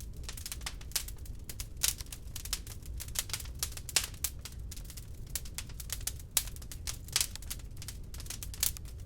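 Wood log fire crackling in a fireplace: irregular sharp pops and snaps, several a second with a few louder ones, over a steady low rumble of the flames.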